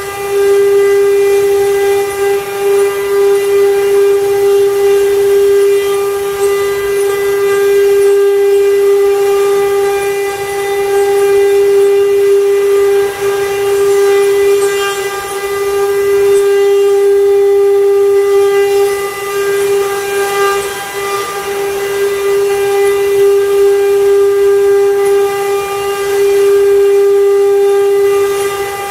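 CNC wood-carving machine's router spindle running with a steady high whine, its loudness dipping and swelling as it works.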